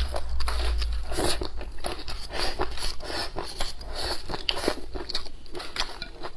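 Close-miked eating: quick crisp crunches and wet chewing as a person bites and chews crunchy kelp salad and mouthfuls of rice.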